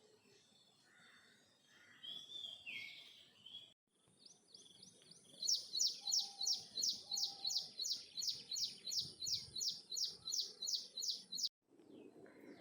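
A bird singing a long run of evenly repeated high notes, each sweeping downward, about three a second for about six seconds, after a few shorter calls. The song breaks off abruptly.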